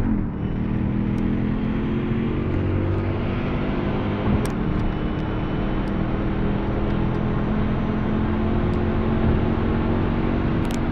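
Car engine and road noise at a steady cruise, heard from inside the cabin, with a few light clicks.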